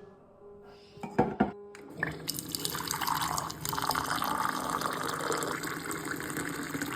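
Water running from a tap, starting about two seconds in after two sharp clicks, a steady rush.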